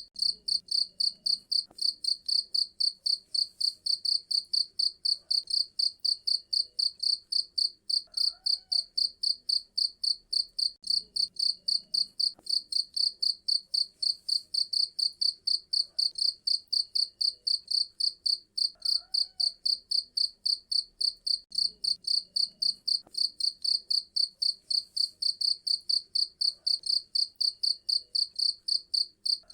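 Cricket chirping steadily in a fast, even rhythm of about three high-pitched chirps a second.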